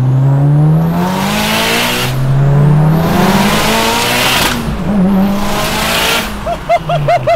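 Stroked 2.2-litre turbocharged 4G63 four-cylinder in a Mitsubishi Lancer Evolution 8 race car, heard from inside the cabin, accelerating hard. Its note rises and drops at two upshifts, with a high turbo whine climbing alongside. Near the end, off the throttle, there is a quick run of short chirps and pops.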